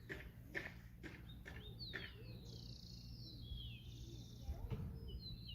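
Small birds chirping in the background: repeated quick, high downward-sweeping chirps and short trills from about two seconds in, after a few faint clicks.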